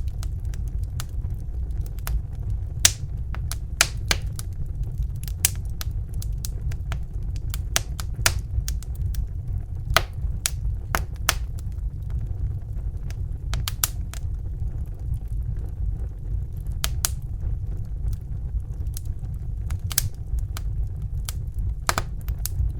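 Crackling fire: irregular sharp pops and crackles, a few each second, over a steady low rumble.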